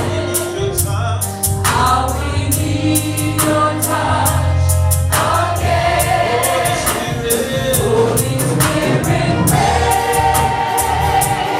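Gospel choir singing a worship song over a band, with a strong bass line and a steady cymbal beat.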